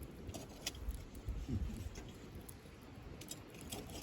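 Wood campfire crackling, with sharp pops and snaps scattered irregularly through it.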